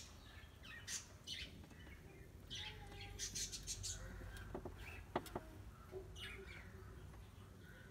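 Small birds chirping in a few quick bursts of rapid high notes, with a few faint clicks about five seconds in.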